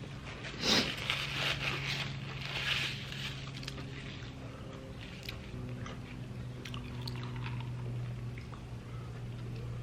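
Close-miked crunching and chewing of a last bite of fried pie, loudest in the first three seconds, then tapering to occasional small clicks over a steady low hum.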